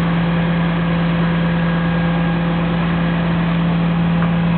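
Steady machine hum at one constant low pitch, with a haze of noise, running without change.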